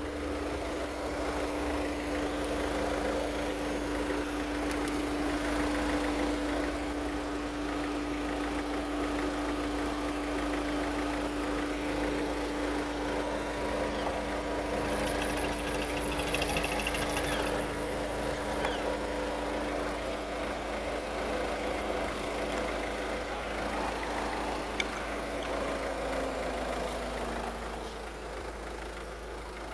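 Ford Focus 1.6 TDCi (HHDA) four-cylinder diesel engine idling steadily. Near the end its pitch sags and the sound fades.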